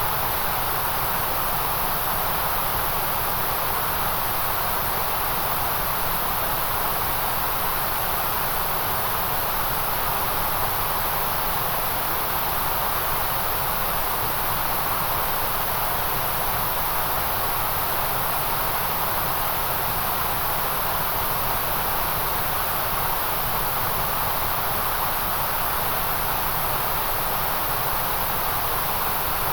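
White noise: a steady, unchanging hiss with no breaks or variation.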